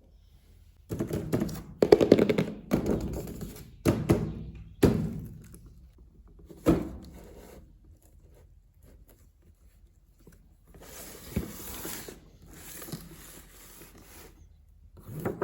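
Hands handling a boxed RC toy truck and its packaging: a run of dull thunks and knocks in the first seven seconds, then a few seconds of rustling.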